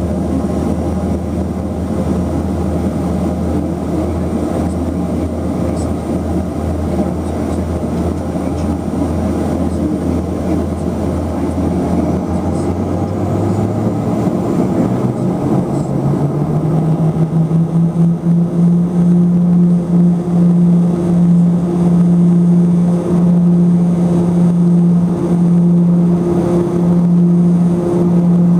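Let L-410's twin turboprop engines and propellers heard from inside the cabin: a steady low drone that, about halfway through, climbs over a few seconds to a higher, louder tone and holds there as engine power is brought up.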